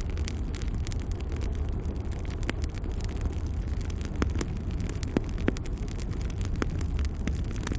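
Wood logs burning in a fireplace: a steady low rumble of flame with frequent sharp crackles and pops, a few of them louder than the rest.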